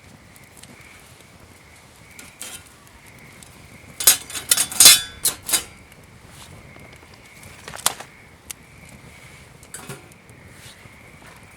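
Metal cookware and utensils clattering: a short burst of quick, sharp knocks about a third of the way in, then a couple of single clinks later.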